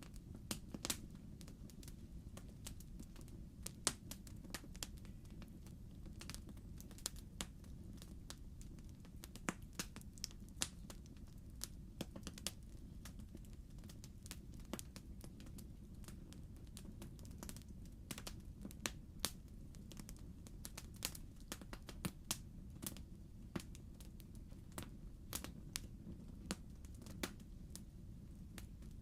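Wood fire crackling in a fireplace: irregular sharp pops and snaps of burning logs over a low steady rumble.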